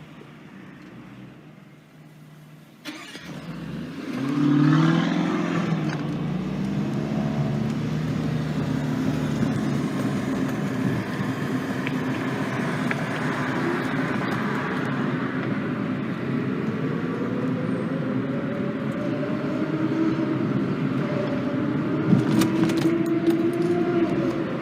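Supercar engines on a city street: about four seconds in, a car revs and accelerates hard, its pitch climbing. Engines keep running after that, with slowly rising engine tones as cars pull away.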